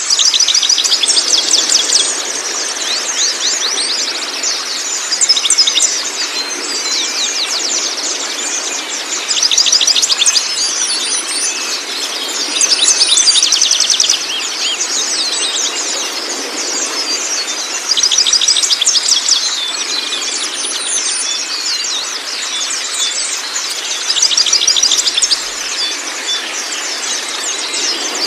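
A songbird sings fast, chattering, trilling phrases, louder in bursts every few seconds, over a steady rush of running water. This is a masteran recording for training cage birds.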